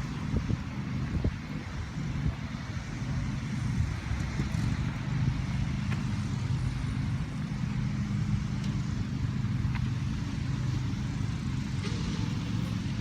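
A steady low engine drone with an even hiss, like a motor vehicle running at constant speed.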